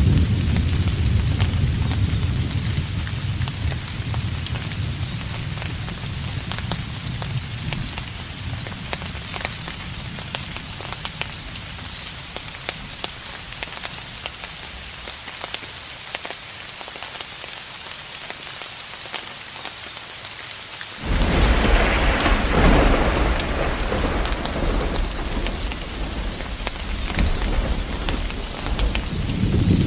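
Steady rain falling, pattered with individual drops, under a distant thunderstorm. A thunder rumble fades away over the first several seconds, then a sudden louder clap about two-thirds of the way through rolls on, and another rumble builds near the end.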